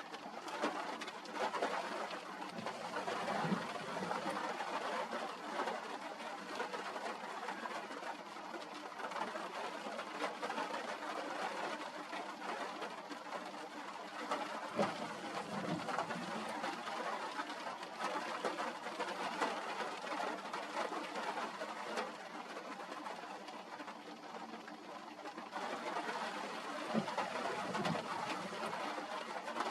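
Steady hiss of rain and wind on the microphone of an outdoor nest camera, with a faint low hum underneath and three brief low sounds, roughly twelve seconds apart.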